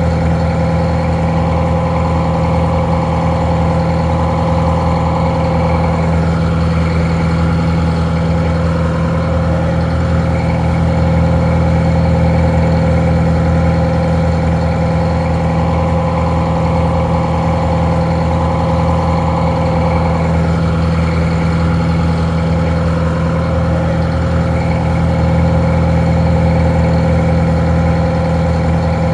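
Detroit Diesel 4-71 two-stroke diesel engine idling steadily, a low, even drone, sounding a little muffled.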